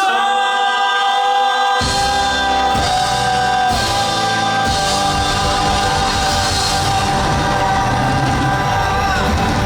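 Live band music with singing: a long note held over the band, with bass and drums coming in about two seconds in.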